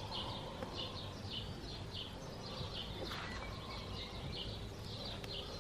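A bird chirping over and over, short high chirps about three a second, over a low steady background noise.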